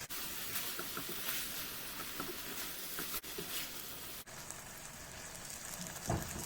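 Chicken pieces cooking in a sauce in a pan, a steady sizzling hiss with faint crackles. A brief soft bump near the end.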